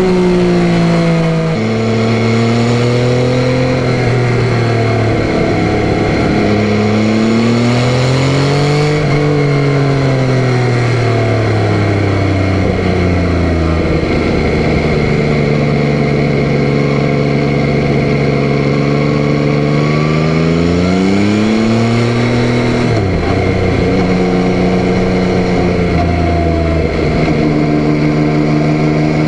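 Yamaha Tracer 9's 890 cc three-cylinder engine under way: engine note rising under acceleration and falling back, with a sudden drop in pitch at an upshift about a second and a half in and another one about twenty-three seconds in, and a long steady cruising stretch in between.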